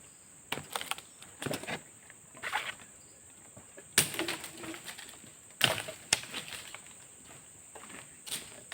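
Irregular rustles and a few sharp knocks, loudest about four and five and a half seconds in, over a steady high-pitched insect drone of the rainforest.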